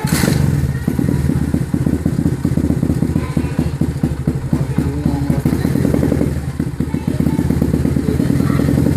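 A 2014 Apollo dirt bike engine catches on the electric starter and runs with a rapid, steady putter. Its level dips briefly about six seconds in, then picks back up.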